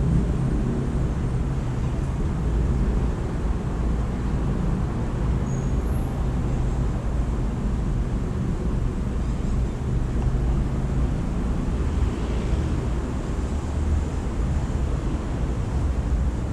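Steady low rumble of road traffic with an engine hum in the first part, and a few faint, high bird chirps about six seconds in.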